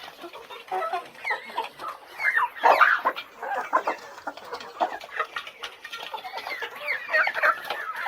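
Chickens clucking, many short overlapping calls, with a louder flurry about three seconds in and again near the end.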